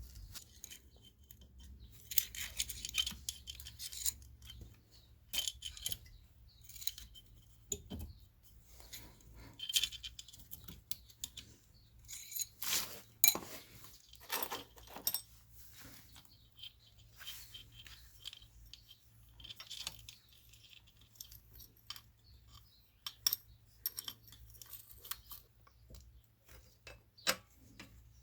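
Irregular metallic clinks, clicks and rattles of tools and small metal parts being handled during scooter engine work. The engine is not running.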